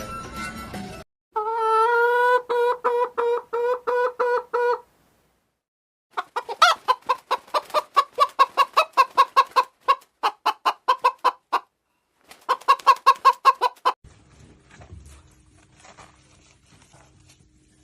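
Chicken clucking in quick, even runs of calls, about four or five a second, in three bursts with short silences between them. After that only faint low sound is left.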